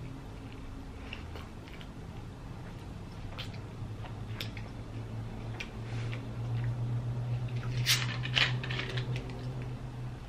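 Close-up chewing and mouth sounds of someone eating a large bread-roll sandwich, with scattered small wet clicks. About eight seconds in comes a louder cluster of crackles and clicks. A steady low hum runs underneath.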